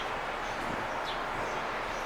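Steady outdoor background noise, with a faint short bird chirp about a second in.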